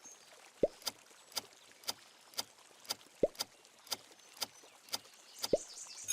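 Countdown-timer clock ticking, about two ticks a second, with a short low blip that drops quickly in pitch three times.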